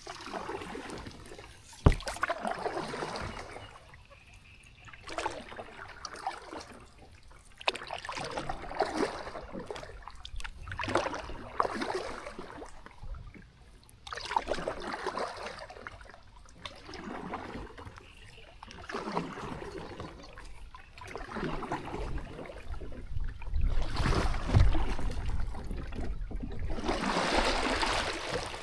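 Kayak paddle strokes swishing and dripping through the water in a steady rhythm, one every two seconds or so. There is a single sharp knock about two seconds in, and a low rumble near the end.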